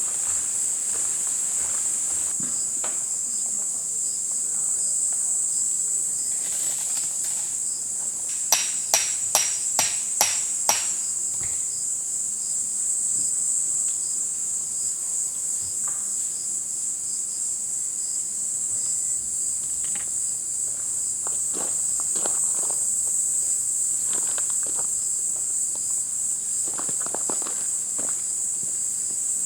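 Steady high-pitched insect chorus. About eight seconds in come six sharp knocks in quick succession, roughly half a second apart, the loudest sounds here, with soft scattered rustles later on.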